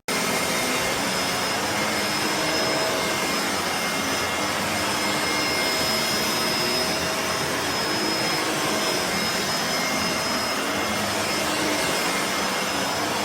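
Bissell MultiClean Allergen Pet upright vacuum running steadily: an even motor-and-airflow rush with a thin, high whine over it.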